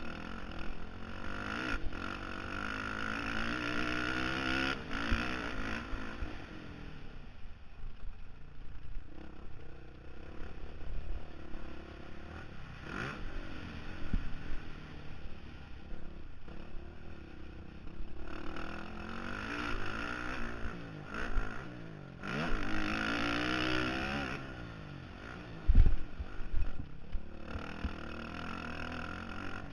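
Honda CRF450R dirt bike's single-cylinder four-stroke engine revving up and down repeatedly as it is ridden, heard from a helmet-mounted camera. Clattering and knocks run through it, with one heavy thump near the end.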